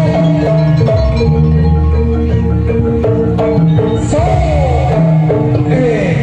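Javanese jaranan gamelan music: struck metal keys and percussion playing under a melody line that slides up and down in pitch.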